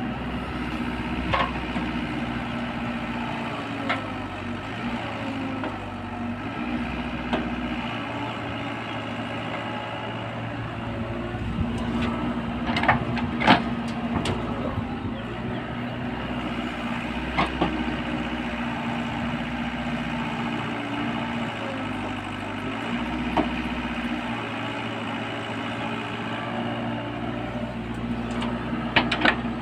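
Diesel engine of an excavator running steadily, its low note swelling and easing every few seconds as the machine works. Occasional sharp metallic knocks come through, several in a cluster about halfway through and again near the end.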